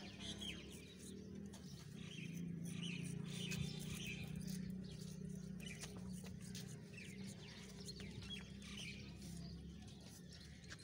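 Small birds chirping over and over, over a steady low hum.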